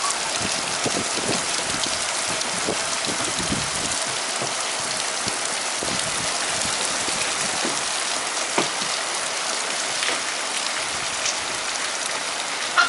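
Steady rain falling, a constant hiss with scattered drop ticks and a couple of sharper drop hits, one past the middle and one near the end.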